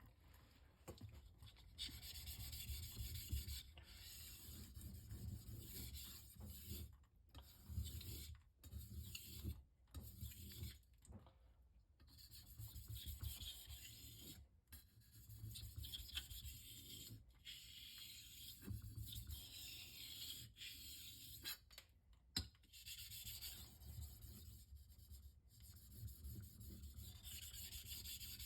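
Knife blade being stroked across a Shapton Rockstar 1000-grit whetstone: a steady grinding scrape in runs of strokes, broken by short pauses.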